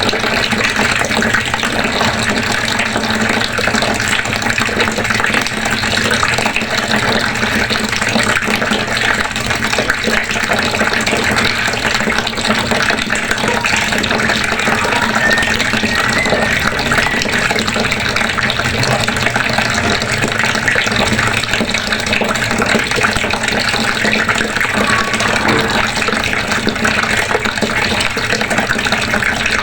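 Water running steadily from a faucet, a continuous splashing stream with no break.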